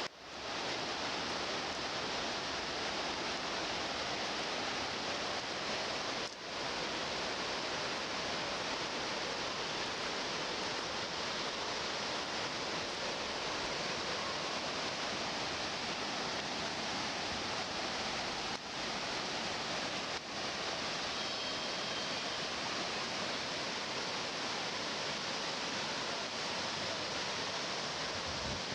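Steady rush of falling or running water, an even hiss without pitch, broken by a few brief dips where the recording cuts.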